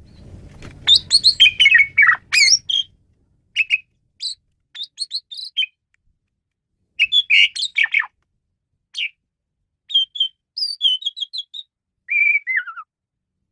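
Asian pied myna (jalak suren) singing in short bursts of chattering, whistled and squawky notes with silent gaps between them, ending in a falling whistle about twelve seconds in. A faint low rumble sits under the first few seconds.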